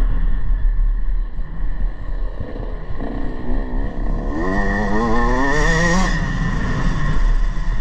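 Motocross bike engine accelerating. Its pitch climbs steadily from about three seconds in, then breaks off sharply near six seconds. A constant low rumble runs underneath.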